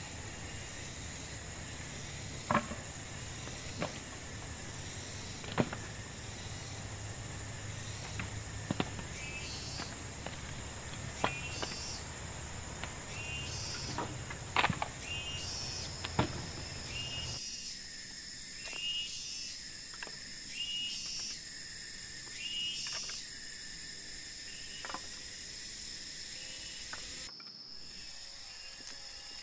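Forest ambience: a steady high-pitched drone of insects, with sharp knocks every few seconds during roughly the first half and short repeated chirps through the second half.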